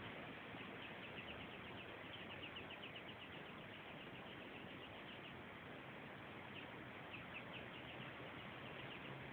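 A small bird chirping in two quick runs of short high notes, about seven a second, over a steady faint outdoor hiss.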